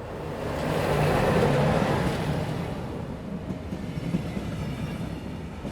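A train passing by: its rumble swells quickly, peaks about a second in, then slowly fades as it moves away, with some irregular clatter from the wheels.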